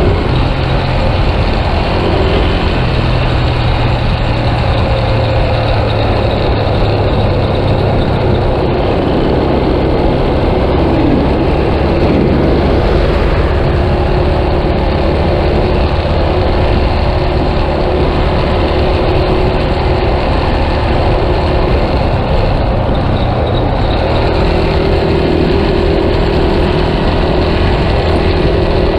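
Yamaha Scorpio motorcycle's single-cylinder four-stroke engine running under way, its pitch shifting now and then with speed, over a steady rush of noise.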